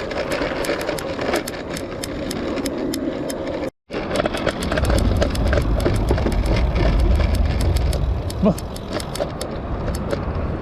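Bicycle rattling over a rough, muddy path, with many sharp clicks and knocks over a steady noise. There is a brief dropout just before four seconds in, and after it a heavier low rumble sets in.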